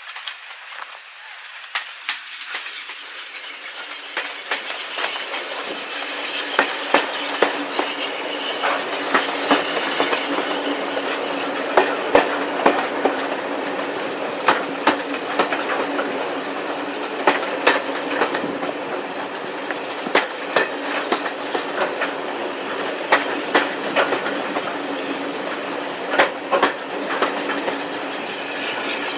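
Heritage railway train running on jointed track, its wheels clicking over the rail joints. The sound grows louder over the first several seconds, then carries on steadily.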